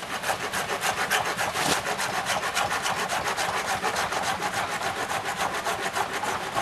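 Hand saw cutting through a standing tree's trunk in fast, even back-and-forth strokes.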